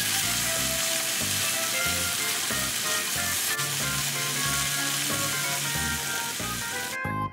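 Spam, potato and onion stir fry sizzling in a wok as it is stirred with a spatula, over light background music. The sizzling cuts off suddenly near the end.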